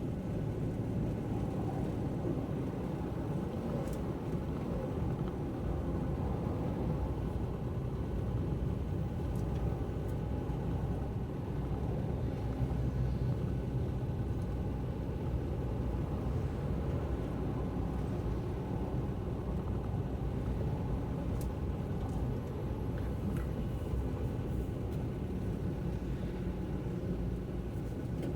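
Steady low rumble of a car being driven: engine and tyre noise on the road, with a few faint ticks.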